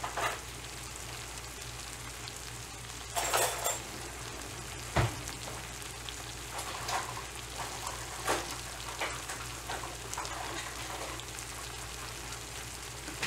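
Seasoned chicken tenders frying in melted butter in a pan: a steady sizzle with a few sharper crackles and a click.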